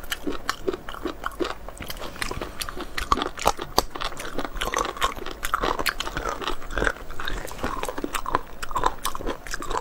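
People chewing and biting raw abalone sashimi, a quick irregular run of crisp crunching clicks: the raw abalone flesh is firm and crunchy.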